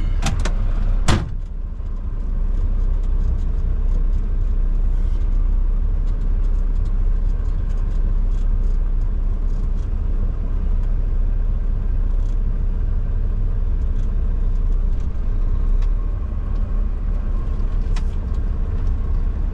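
Mack semi truck's diesel engine running steadily at low revs as the heavy rig creeps along, a deep constant rumble. A couple of sharp clicks come about a second in, and another near the end.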